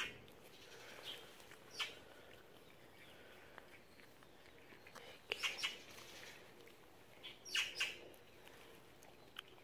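Small birds chirping: short sharp chirps, one or two early on and then quick clusters of three or four, about halfway through and again near the end, over a faint outdoor background.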